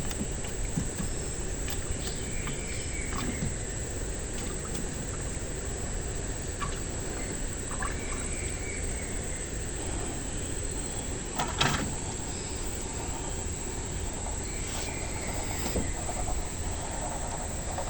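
Steady high-pitched insect drone, crickets or cicadas, over a continuous background hiss, with a few scattered knocks, the loudest about two-thirds of the way through.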